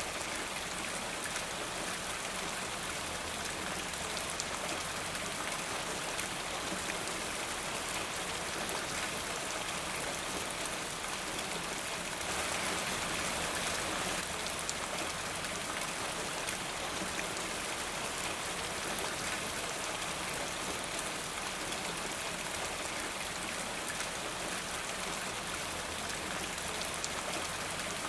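Steady rain falling, with individual drops pattering on a surface and a slight swell in intensity about halfway through.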